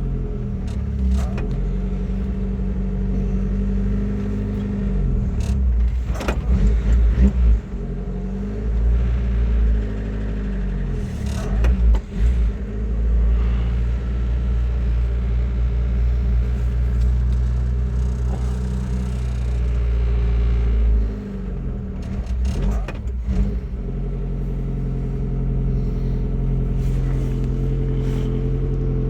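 Suzuki Samurai's four-cylinder engine running steadily after a cold start. The engine speed rises and falls briefly a few times, about six seconds in and again about twenty-two seconds in.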